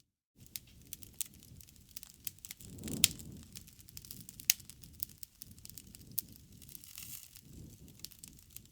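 Wood bonfire crackling steadily with many small snaps and a few sharp pops, the loudest about three seconds in, over a low rush of flame that swells twice.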